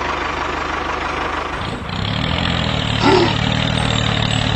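Engine-like running sound of a homemade mini tractor, steady, with a deeper hum setting in about two seconds in and a short pitched squeal near three seconds.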